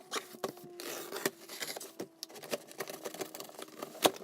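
Packaging being handled and opened during an unboxing: irregular rustling and clicks, with one sharper knock near the end.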